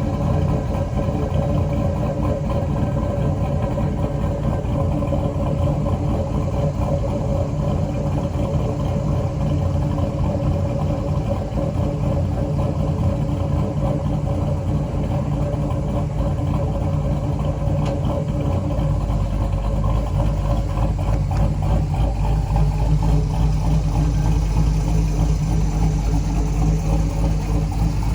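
Cammed Chevrolet Silverado 5.3 L V8 idling through an aftermarket exhaust, a steady low pulsing note. About two-thirds of the way through, the deep low end gets stronger.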